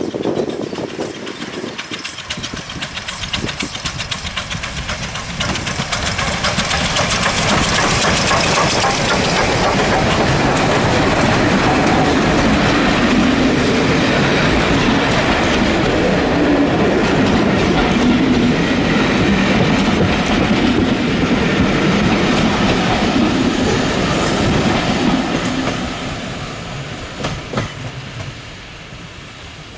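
Heritage railway train passing close by, its wheels clicking over the rail joints. It grows louder over the first several seconds, stays loud for most of the time, and fades away near the end.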